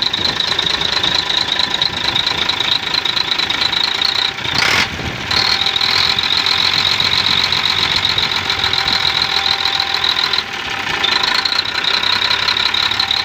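Weichai diesel truck engine running steadily with a rattly clatter, test-run after a faulty fuel injector was replaced to cure its knocking. A brief rush of noise about four and a half seconds in.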